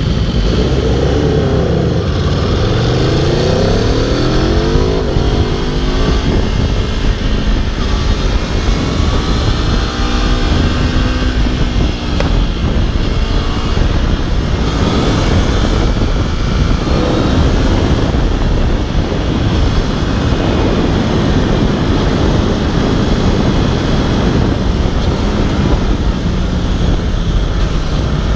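Aprilia RSV4 sportbike's V4 engine at speed on a race track, its note climbing and dropping again and again as it accelerates, shifts gears and slows.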